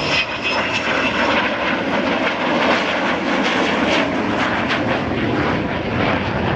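Avro Vulcan XH558's four Rolls-Royce Olympus turbojets, loud and continuous as the bomber flies its display, the noise shot through with sharp crackles.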